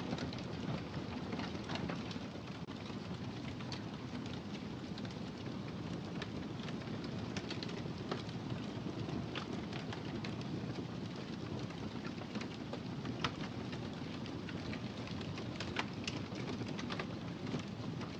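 Wood fire burning in a fireplace: a steady low rumble with scattered crackles and pops, and a few sharper pops in the second half.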